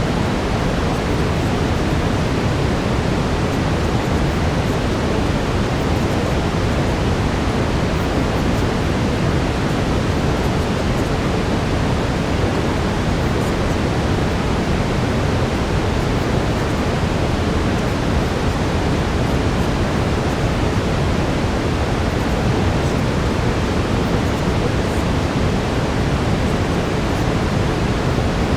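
Brown noise: a steady, unbroken hiss-rumble, heaviest in the low end, with no changes.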